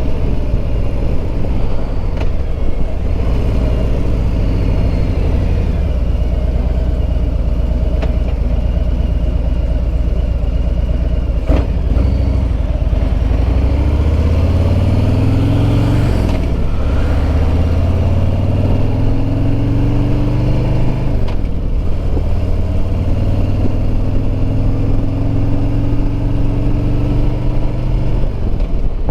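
Harley-Davidson Road Glide Limited's Milwaukee-Eight 114 V-twin under way, mixed with wind noise. It cruises steadily at first. From about halfway it pulls up through the gears, the engine note climbing and then dropping sharply at each of three upshifts. A single sharp click comes just before the first climb.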